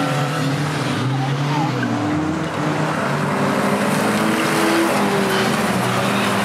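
Several banger-racing cars' engines running and revving together, their pitch stepping up and down, over a steady hiss of tyre and track noise.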